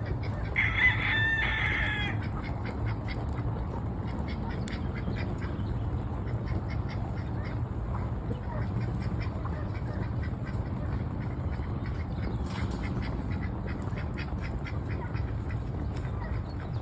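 Domestic ducks quacking in short, rapid, repeated calls, with one louder drawn-out call about a second in, over a steady low rumble.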